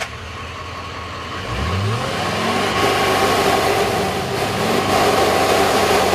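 Chevrolet Duramax diesel pickup engine running just after starting, revved in several short blips that rise in pitch, growing louder in the second half.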